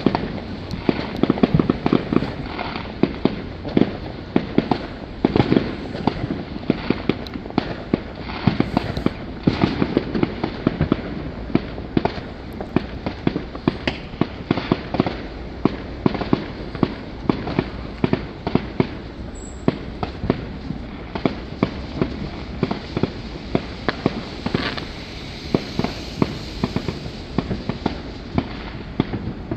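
Many fireworks going off at once: a continuous barrage of bangs, pops and crackles, several a second, over a low rumble.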